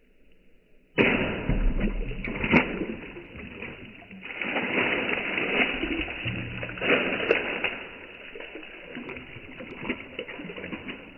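Broken ceramic roof-tile shards splashing into a bucket full of rainwater and clattering, starting suddenly about a second in and rising and falling, with sharp knocks about 2.5 and 7 seconds in.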